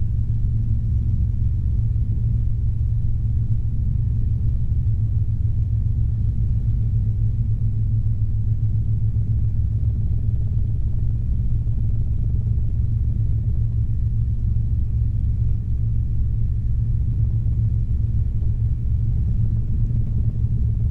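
Robinson R22 helicopter in flight, heard from inside the cabin: a steady low drone from the piston engine and two-blade rotor, with a fine, even pulsing.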